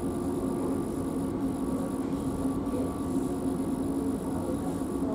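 Steady hum and rumble inside an Alstom Citadis tram, with a few even tones held over the noise throughout.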